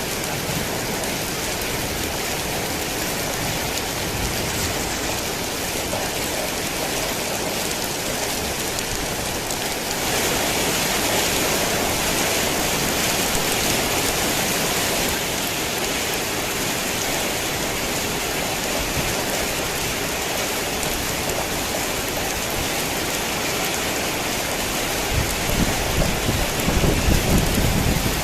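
Heavy rain pouring steadily, growing louder about ten seconds in. Near the end a low rumble of thunder rolls in.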